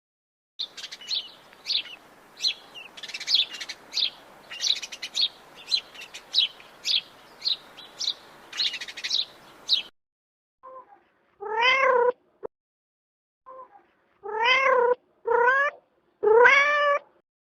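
Rapid, high-pitched chirping over a faint hiss for about nine seconds, then a domestic cat meowing four times, each meow rising and falling in pitch, the last one the loudest.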